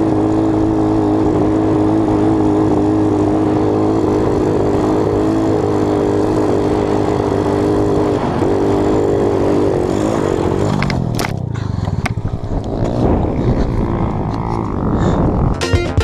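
Dirt bike engine held at steady high revs for about ten seconds, then the revs fall away as the bike slows. A few sharp knocks and some clatter follow.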